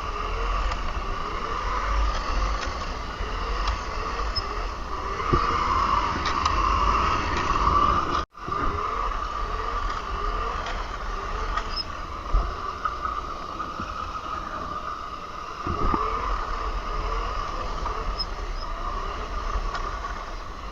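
48-volt Razor MX350 electric dirt bike being ridden: its chain-driven motor whines steadily, over wind rumble on the microphone. The sound cuts out briefly about eight seconds in.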